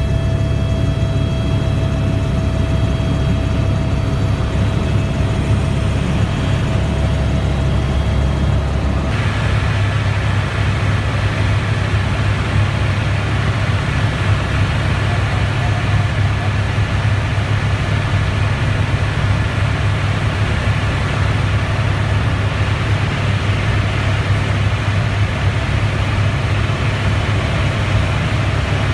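Helicopter in flight: steady, loud rotor and turbine drone as heard from inside the cabin. About nine seconds in, the sound shifts abruptly and gains more hiss.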